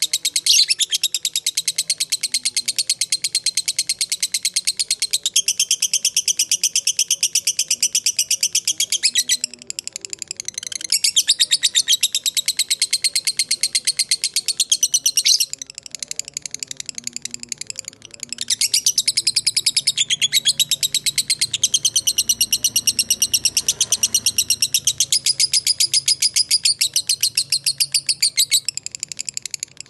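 Lovebird giving long, very fast chattering trills (the prized 'ngekek panjang'), several runs of five or more seconds each, broken by short pauses.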